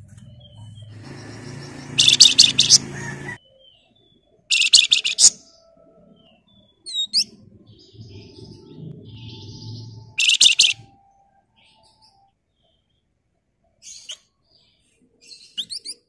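Caged flamboyan babbler calling in fast, harsh chattering bursts: three loud runs of rapid notes about 2, 4.5 and 10 seconds in, with short whistled notes and quick rising chirps between them. A low rumbling noise runs under the first burst and again just before the last one.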